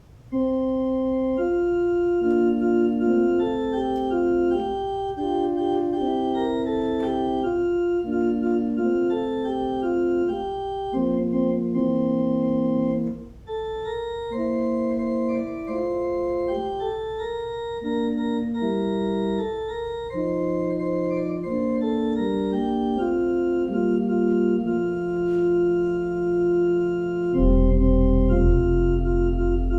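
Organ playing a slow prelude of sustained chords, the notes held and changing steadily; deep pedal bass notes join near the end.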